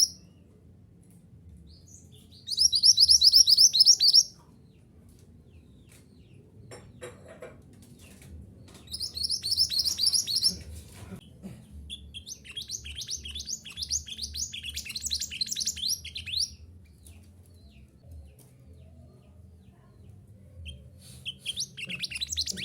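Minivet (mantenan gunung) song: phrases of rapid, high repeated notes, each run lasting one to four seconds, four times with short pauses between, over a faint low hum.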